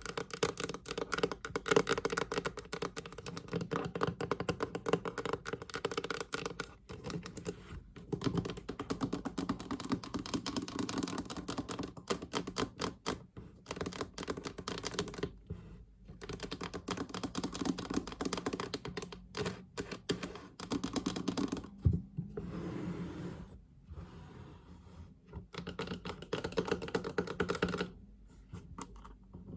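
Fast tapping on a storage chest: a dense, rapid run of light taps broken by a few brief pauses, with a softer, scratchier stretch about three-quarters of the way through.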